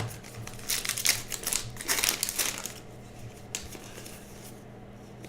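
Baseball trading cards being handled: a quick run of rustling, sliding and crinkling sounds, busiest in the first three and a half seconds and then trailing off.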